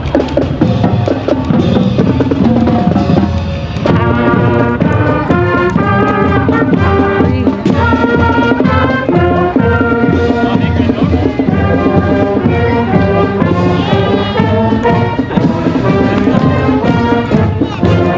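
Marching band playing: drums and percussion keep a steady beat while the horns play the melody, coming in much stronger about four seconds in.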